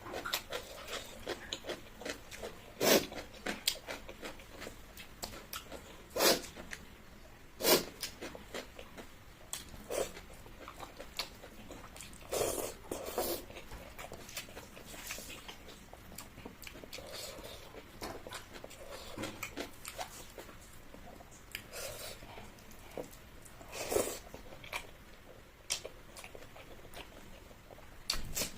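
A person eating close to the microphone: chewing and biting, with a few short, sharp, louder crunches or clicks.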